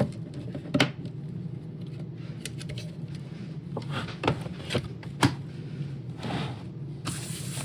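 Scattered sharp clicks and knocks of plastic robot-vacuum parts being handled and fitted together, over a steady low hum. A hiss starts near the end.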